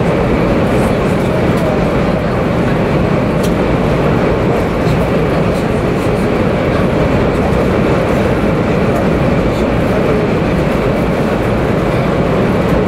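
Steady running noise of a 500 series Shinkansen heard from inside the passenger cabin: an even rumble and rush of wheels, track and air, with no change in speed.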